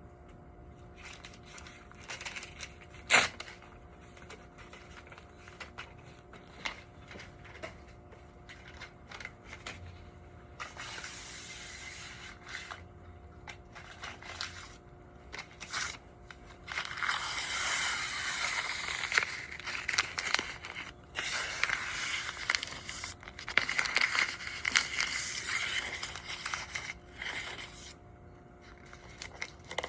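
Scattered clicks and taps, then crinkling, scraping handling noise in bursts of a few seconds that start and stop abruptly, over a faint steady electrical hum.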